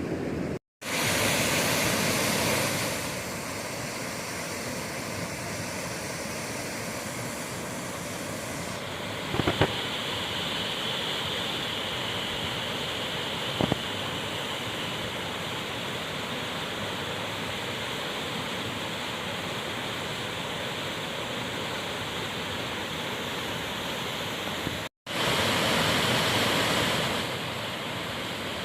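Steady rush of flowing creek water, broken twice by a sudden short gap, with a couple of faint knocks about ten and fourteen seconds in.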